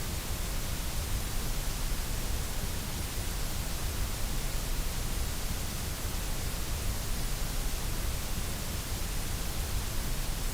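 Steady white noise: an even, unchanging hiss that never varies in level.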